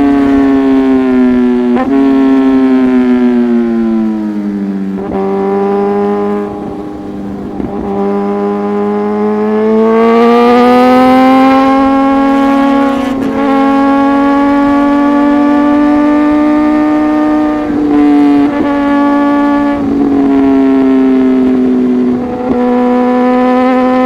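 Inline-four superbike engine running through an aftermarket exhaust while riding at speed. Its note falls about four seconds in, climbs again a few seconds later and holds steady, with short breaks in the sound a handful of times.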